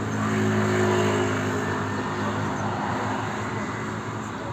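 A motor vehicle passing close by: a steady engine hum with tyre noise, loudest about a second in and then slowly fading.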